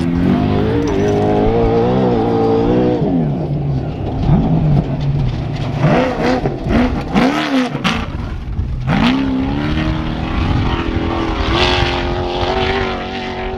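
Trophy truck race engine revving hard, its pitch rising and dropping repeatedly as the throttle comes on and off, with several quick up-and-down blips and a few sharp cracks in the middle, then a long rising pull that holds steady near the end.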